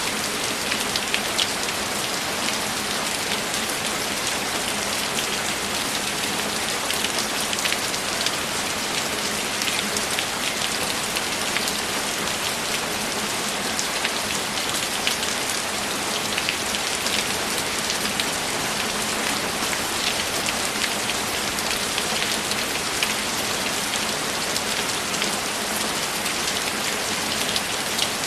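Heavy rain falling steadily, with many close individual drops ticking through the even hiss.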